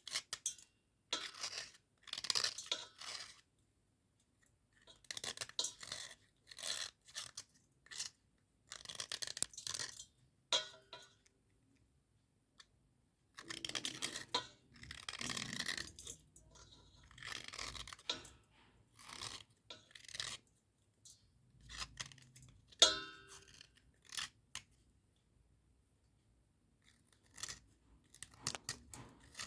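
Dry cubical slate pencils crunching and breaking in irregular bursts with short pauses, with one sharp snapping crack about three-quarters of the way through.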